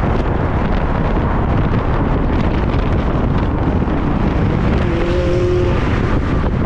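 Wind rush and road noise of a moving vehicle, with wind buffeting the microphone. A brief two-note tone sounds about five seconds in.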